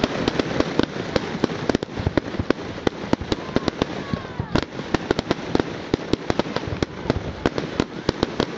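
Firework display: a rapid, irregular barrage of sharp bangs and crackles, several a second, with a faint falling whistle about halfway through.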